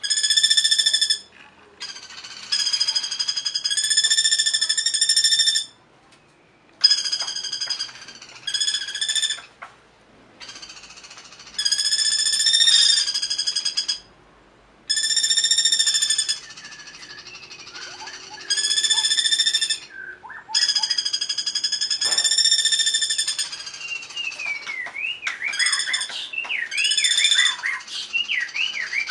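Recorded songbird-training calls. Long, even, buzzing trills, each one to three seconds, repeat with short pauses between them. From about 24 seconds in, a bird's quick up-and-down whistled song joins them.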